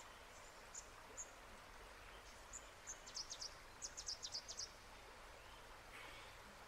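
Cicadabird calling: a few short, high-pitched notes, then a quick run of about a dozen notes a little past the middle, faint over a steady background hiss.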